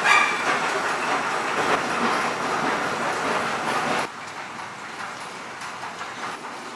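Steady running noise of a vehicle in motion, which drops suddenly to a quieter background noise about four seconds in.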